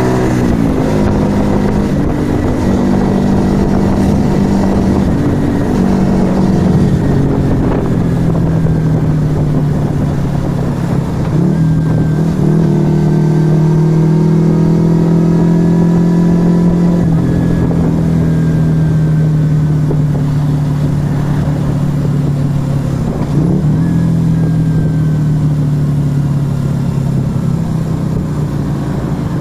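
Yamaha XV125 Virago's small air-cooled V-twin running under way through a Turbo Kit aftermarket exhaust. The engine note holds steady for stretches and shifts in pitch at several points, with brief breaks where the throttle or gear changes.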